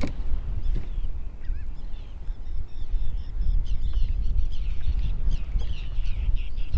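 Wind buffeting the microphone as a steady low rumble, with birds calling in many short, high notes from about three seconds in.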